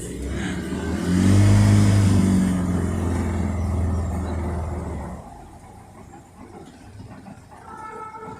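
Boat's outboard engine revving up loudly, then easing off about five seconds in.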